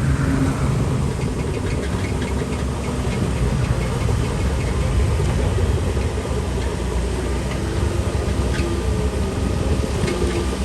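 Shantui DH17C3 Pro bulldozer's diesel engine running steadily at work, with scattered metallic clanks and rattles over a low rumble.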